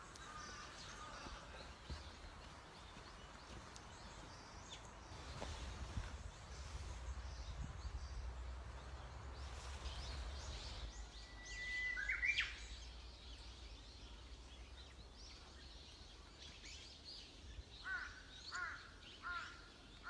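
Forest birds calling: a sharp call about midway, then a series of short repeated chirps near the end. A low rumble on the microphone fills the first half.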